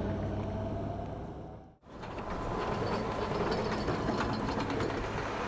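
Vehicle driving noise with a steady low rumble that fades out about two seconds in. It is followed by rattling, clattering road noise with many small clicks.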